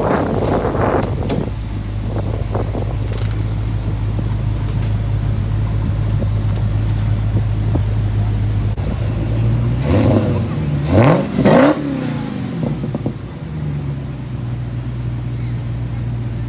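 Muscle car engine idling with a steady low rumble, revved up sharply two or three times about ten to twelve seconds in, then settling back to idle.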